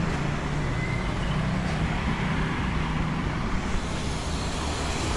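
Vehicle engine running on the move, with steady road and wind noise.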